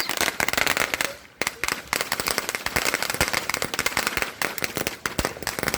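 Consumer fireworks crackling in a fast, dense run of sharp pops, with a short break about a second and a half in.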